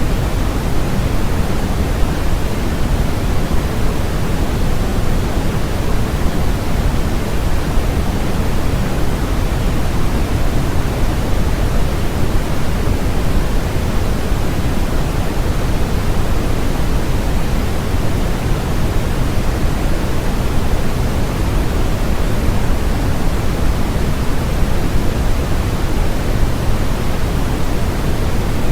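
Steady generated noise for relaxation or sleep, an even, unchanging rush with more weight in the low end than a thin hiss.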